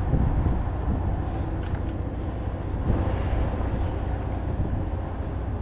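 Diesel truck engine idling steadily with a low, even rumble.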